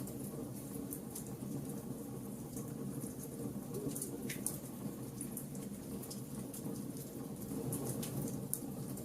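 Wood fire burning, with a steady low rush of flames and frequent sharp crackles and pops from the burning wood.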